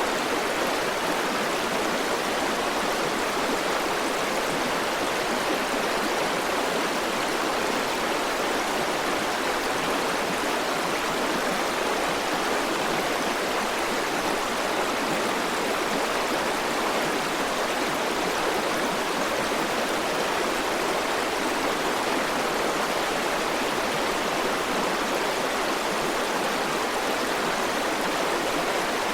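A river's flowing water making a steady, even rush with no changes.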